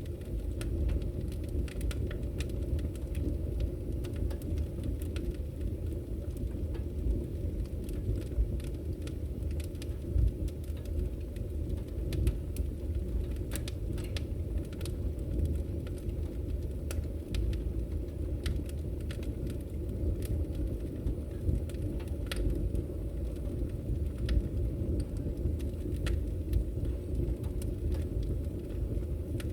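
Wood fire burning: a steady low roar of flame with frequent sharp crackles and pops from the burning logs.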